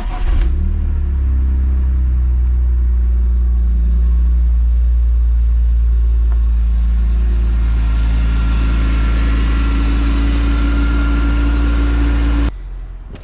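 BMW E46 M3's straight-six engine catches and settles into a steady idle, then is switched off about twelve seconds in, cutting out suddenly. It is idling briefly to warm the freshly refilled oil for a dipstick level check.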